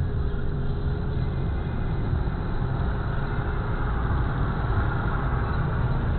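Steady car engine and road noise, a continuous low rumble with no distinct events.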